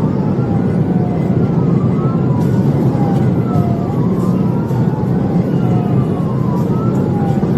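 Police car siren wailing, each cycle a slow fall and a quick rise about every two seconds, over the loud steady road and engine noise of a patrol car at pursuit speed.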